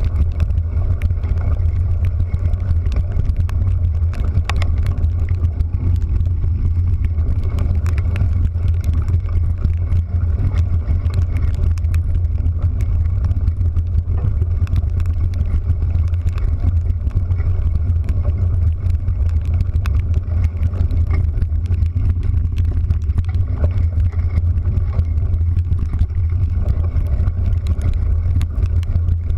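Steady, loud low rumble of a vehicle travelling, heard from on board, unchanging throughout.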